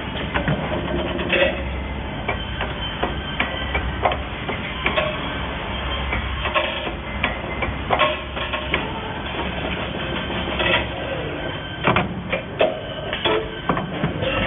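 Automatic wire-processing machine running: irregular sharp clicks and knocks over a steady low hum.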